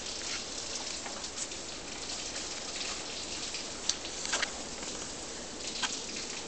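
Steady rain falling, an even hiss with a few sharper drips or taps standing out now and then.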